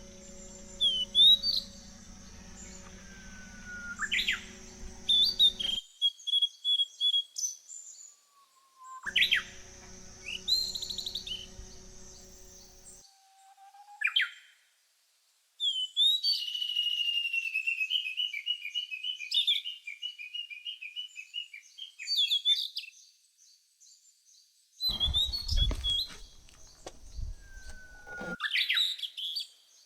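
Songbirds singing and chirping: short whistled calls and glides, with one longer warbling song in the middle. The background shifts abruptly several times, and a steady low hum runs under some stretches.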